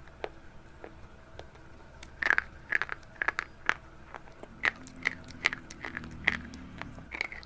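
Close-up crisp crunching and crackling of something brittle, a few scattered cracks at first, then quick, dense crunches from about two seconds in.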